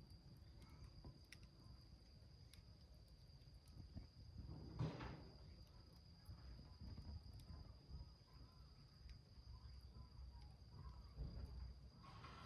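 Faint, sparse crackling of a small wood fire burning in a tin can, over a steady high-pitched drone, with a soft rustle about five seconds in.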